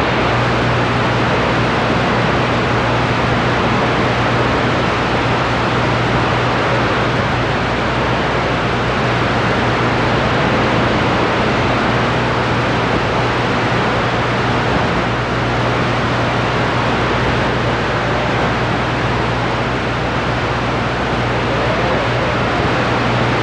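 CB radio receiver on the 11-meter band giving out steady static hiss with a constant low hum, unbroken and with no voice coming through.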